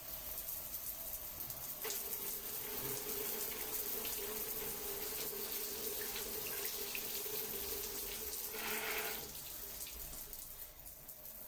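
Water running in a steady stream, starting about two seconds in and stopping about nine seconds in, with a brief louder rush just before it stops.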